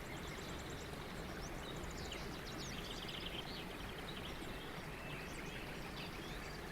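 Small songbirds twittering faintly in quick series of short, high chirps and trills over a steady background hiss.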